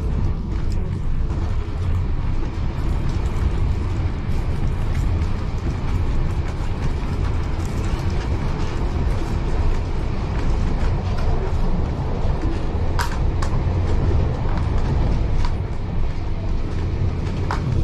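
Heritage railway carriage in motion, heard from inside: a steady low rumble of the wheels on the track, with creaks from the carriage body and short sharp clicks or squeaks, the clearest about thirteen seconds in and near the end.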